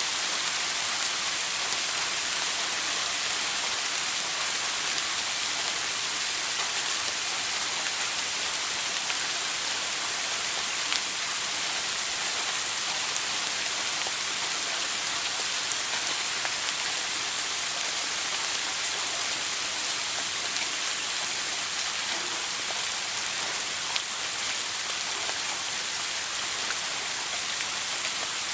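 Shower running: water spraying onto a hard surface in a steady, even hiss, with a few faint drip-like ticks.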